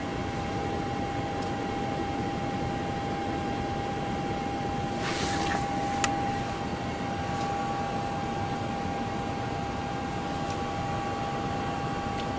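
Steady fan and air-conditioning noise on a powered-up airliner flight deck, with a steady high tone that stops near the end. A brief hiss comes about five seconds in, and a sharp click about a second after it.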